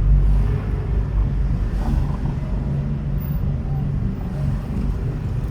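A car being driven, heard as a steady low engine drone and road rumble.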